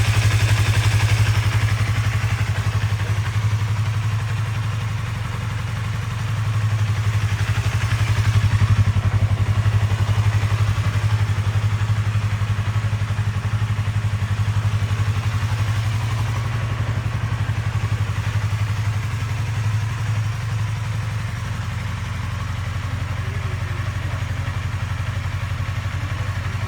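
Yamaha YZF-R25's 250 cc parallel-twin engine idling steadily through a WR'S titanium aftermarket muffler, rising slightly for a moment about seven seconds in.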